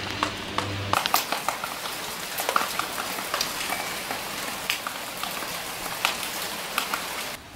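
Rain falling, a steady hiss with many scattered drops ticking on hard surfaces. A low steady hum sounds underneath for about the first second, then stops abruptly.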